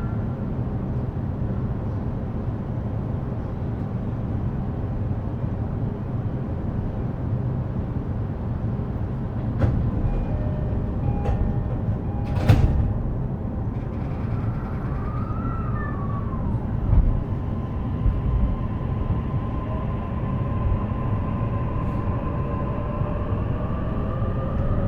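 E233-series electric train standing with a steady low rumble, then a loud clunk about halfway through. Near the end the traction motors start a whine that rises in pitch as the train pulls away.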